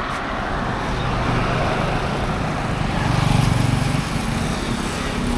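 Street traffic noise: a steady hum of passing motor vehicles, with one engine growing louder about three seconds in.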